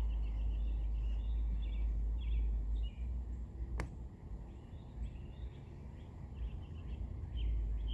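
Small birds chirping over and over in quick short calls, with a low rumble for the first three seconds and again near the end, and a single sharp click just before four seconds in.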